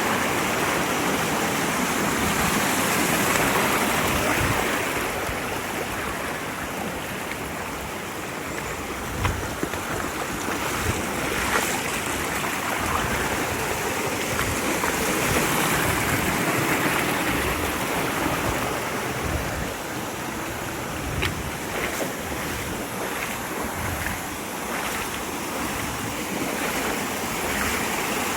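Mountain stream rushing over rocks in a steady wash of water noise, with a few brief knocks now and then.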